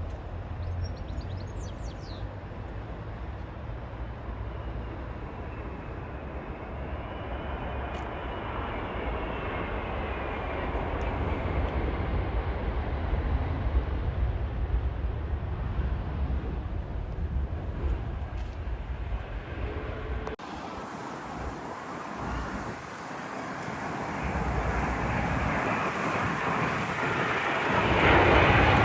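Widebody jet airliner on final approach, its engine noise building steadily and loudest near the end. A falling whine runs through the noise a few seconds in.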